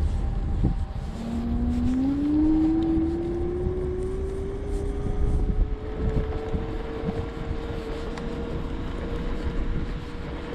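Segway Ninebot F2 Pro electric scooter's motor whining as it accelerates. The pitch rises quickly about a second in, keeps climbing slowly for several seconds, then holds steady, over a low rumble of wind and tyres on the road.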